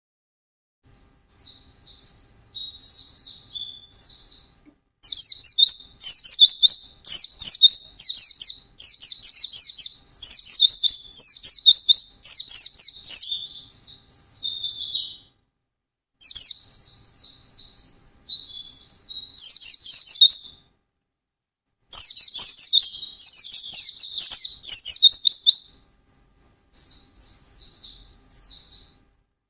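White-eye (pleci) singing a fast, chattering 'ngalas' song: rapid high twittering phrases in bouts of several seconds, separated by short pauses.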